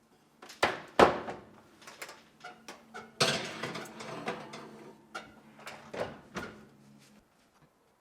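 Kitchen handling sounds: two sharp knocks about a second in, then scattered clicks and a stretch of clattering, over a low steady hum, all stopping near the end.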